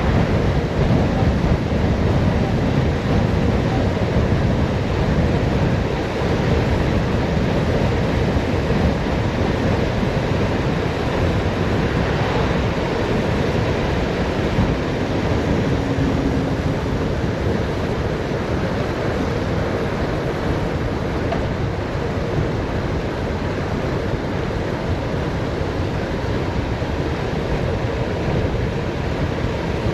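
Wind rushing over the microphone of a bicycle on a fast downhill descent: a loud, steady rumble that eases slightly toward the end.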